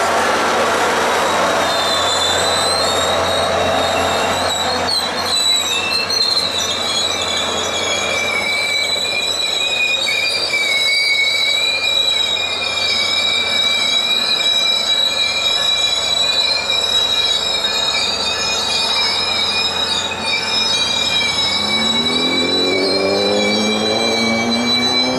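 SunRail commuter train's steel wheels squealing with a steady high-pitched screech against the rails, over the rumble of the moving train. Near the end a diesel engine's note rises in pitch.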